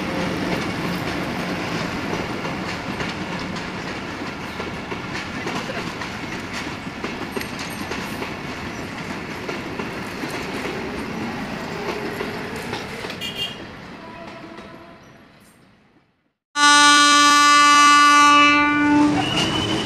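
Passenger train coaches running past on the rails with a steady rattle that fades away. Then, after a short break, a diesel locomotive's horn sounds loudly for about two and a half seconds.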